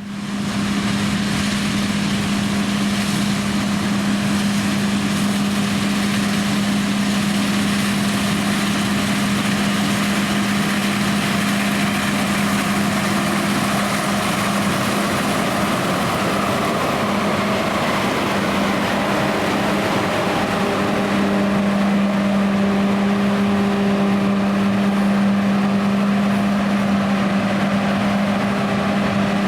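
Combine harvester running steadily while combining, a constant hum with a strong steady tone. The sound comes in suddenly at the start.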